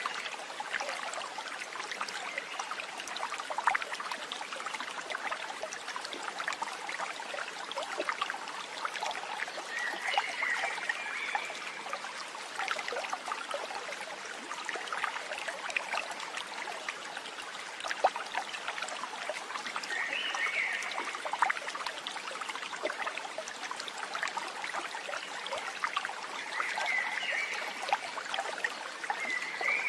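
Stream water trickling and splashing steadily, with short chirping calls a few times.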